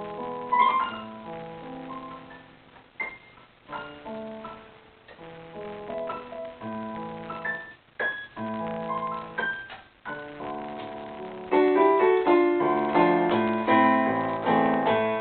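Solo jazz piano playing an instrumental break: slow sustained chords with single-note runs, growing fuller and louder about two-thirds of the way through.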